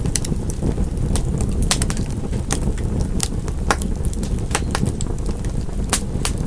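Fire burning in a fireplace, crackling and popping irregularly, several sharp pops a second, over a steady low rush of the flames.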